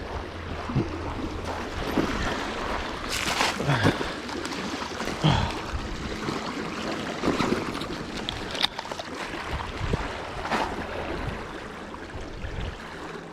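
Gusty wind on the microphone and water lapping at the shore, a steady rushing noise broken by several short louder splashes or knocks.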